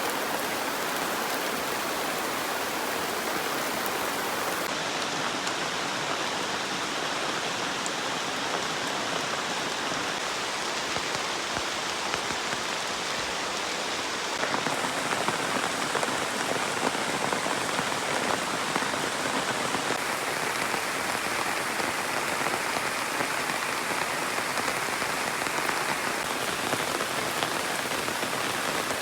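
Heavy tropical rain falling steadily: a dense, even hiss of a downpour.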